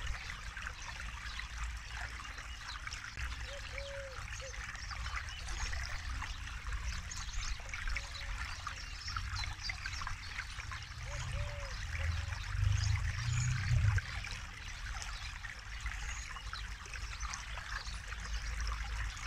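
Forest river flowing and babbling over stones: a steady, splashy rush of water. A deeper rumble swells for a few seconds past the middle.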